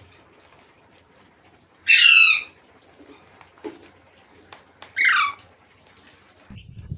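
Parrot giving two loud, harsh calls, each falling in pitch: one about two seconds in and a shorter one about five seconds in, with faint clicks in between.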